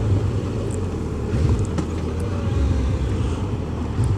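Suzuki GSX1400's inline-four engine running steadily under way, with a low rumble mixed with road and wind noise.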